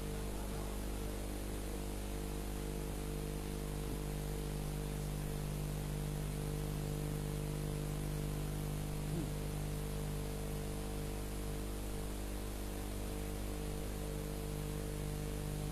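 Steady electrical hum with hiss from the sound system and recording, held at an even level with no voice.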